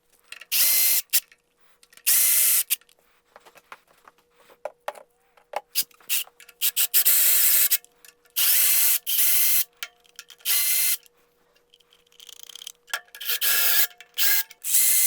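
Power ratchet spinning out intake manifold bolts on a Ford 300 inline-six, whirring in repeated bursts of about a second, with small clicks of the socket and bolts between bursts.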